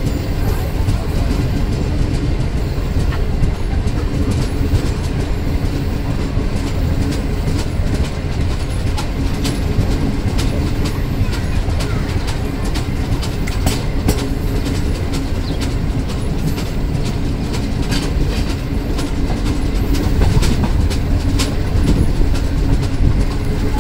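Pak Business Express passenger train rolling along the rails, heard from an open coach doorway: a steady low rumble with frequent sharp clicks of the wheels over the track.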